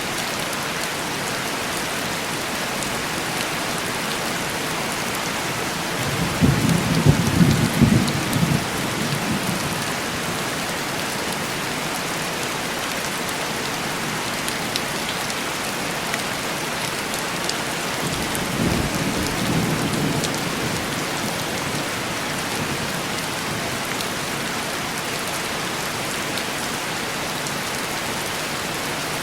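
Steady heavy rain on window glass. A roll of thunder sets in about six seconds in and rumbles for about three seconds, and a second, fainter roll follows about twelve seconds later.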